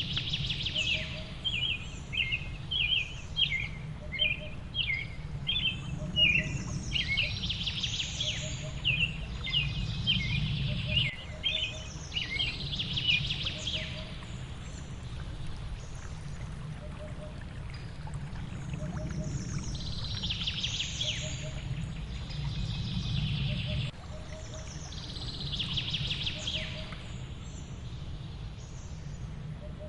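Small songbirds chirping and twittering in quick runs of short high notes, dense in the first half and sparser later, over the steady low rush of a waterfall.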